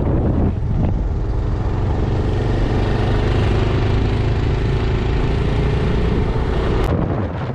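Motorcycle engine running steadily while riding, with a strong low rumble. The rumble drops away suddenly near the end.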